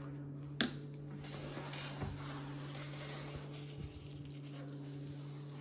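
A steady low electrical hum with a single sharp click about half a second in, and a few faint, short high chirps from small birds spaced through the second half.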